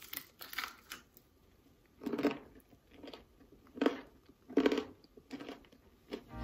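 Crispy tempura-battered, double-fried chicken being bitten and chewed close to the microphone: the crust crunches in short, irregular bursts.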